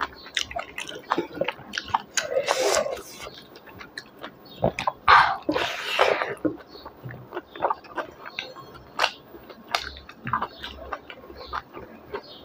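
Close-miked chewing of a mouthful of rice and beef innards curry, with wet mouth clicks and smacks throughout and a few louder chewing moments about two and a half and five seconds in.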